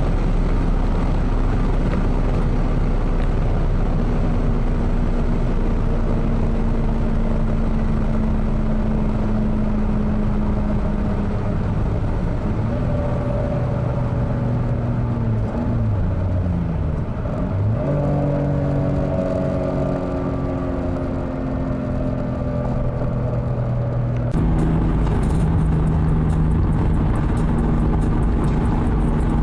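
Toyota Supra's 2JZ-GTE twin-turbo inline-six pulling hard at high speed, its pitch steady or climbing slowly over heavy road and wind rumble. Around the middle the engine note dips sharply twice and climbs again, as at gear changes.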